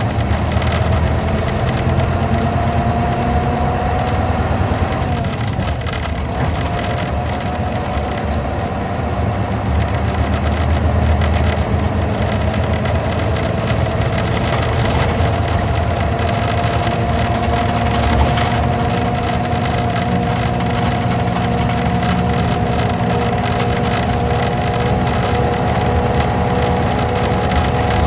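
Isuzu Gala coach's V-type diesel engine and drivetrain heard from inside the bus while under way: a steady low rumble with a whine that climbs slowly, drops back about five seconds in, then climbs again.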